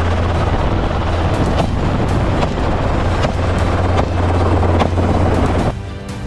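Helicopter running loudly with a steady low drone, cut by sharp cracks about once a second. Near the end it cuts off, leaving music.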